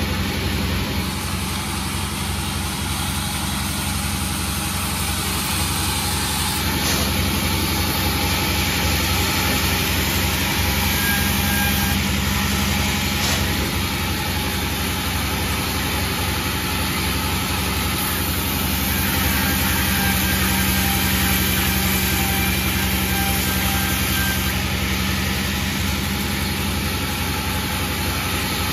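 Sawmill engine running steadily, a continuous low drone that swells slightly twice.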